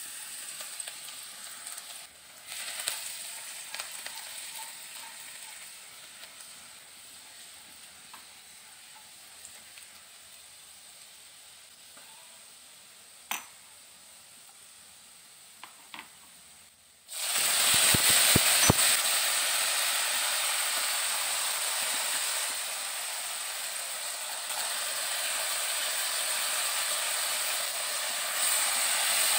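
Minced garlic sizzling in hot cooking oil in a nonstick wok, the sizzle easing to a soft hiss. A few sharp taps come before a point a little over halfway through, when the seasonings and sauces go into the pan and the sizzle jumps suddenly loud and stays loud.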